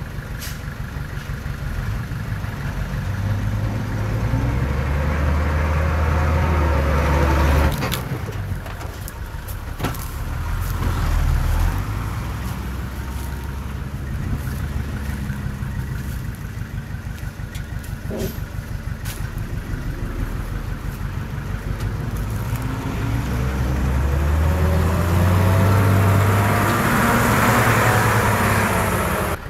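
Heavy diesel engine of earthmoving machinery working, revving up and down in long surges, loudest a few seconds in and again near the end. A few sharp clanks come through in between.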